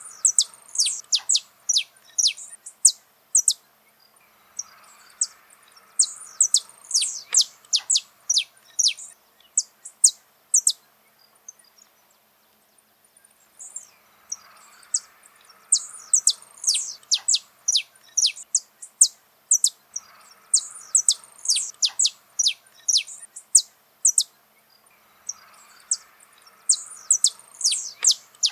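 Saffron finch (canário-da-terra) singing: phrases of rapid, sharp, high notes that each drop quickly in pitch, lasting a few seconds each and separated by short pauses.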